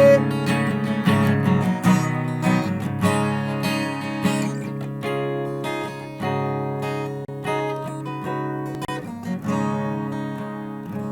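Acoustic guitar strumming and picking the closing chords of a song with no vocals, gradually fading.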